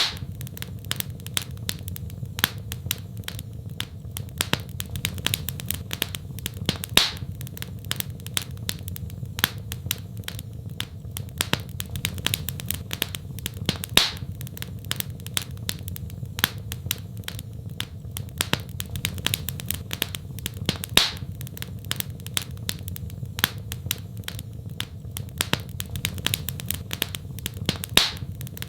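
Wood fire crackling in a fireplace: a dense run of small crackles with a louder pop every couple of seconds, over a steady low rumble of the flames.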